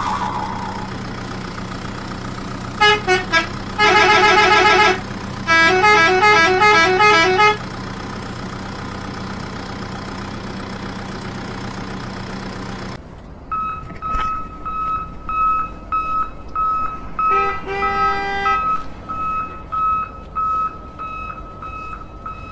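Electronic toy-vehicle sound effects: a steady engine hum with a fast warbling electronic horn melody played twice. About 13 seconds in, the sound switches to a regular high electronic beeping, with a brief run of tones a few seconds later.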